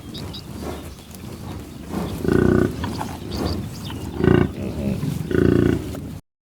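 Buffalo calling three times: short, low calls about a second or two apart.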